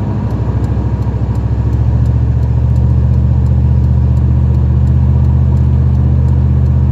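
Dodge Ram 1500 pickup cruising at highway speed, heard from inside the cab: a steady low drone of engine and road noise that builds over the first two seconds, then holds.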